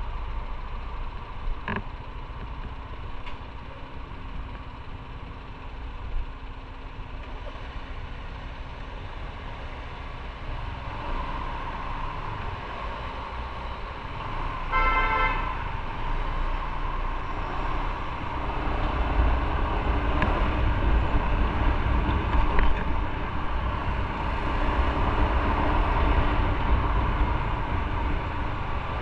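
Motorcycle ride: steady engine and road noise that grows louder about a third of the way in and again past the middle. A vehicle horn sounds once, briefly, about halfway through.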